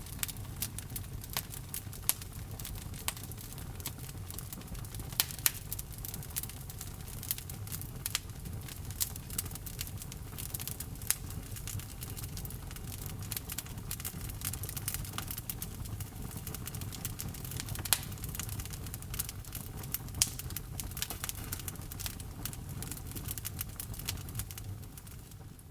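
Wood fire burning in a fireplace: a steady low rumble with irregular crackles and sharp pops, a few much louder than the rest. It fades out at the very end.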